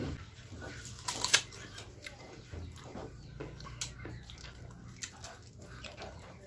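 Close-up chewing of a bite of hard, unripe green mango: a run of small crisp crunches and mouth clicks, with one louder crunch about a second in.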